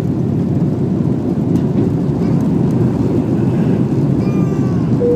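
Airliner engines and rushing air heard from inside the passenger cabin on takeoff: a loud, steady, deep rumble.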